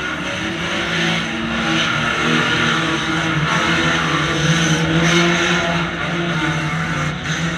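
Banger racing car's engine running, heard from inside its stripped-out cabin, its pitch shifting a little.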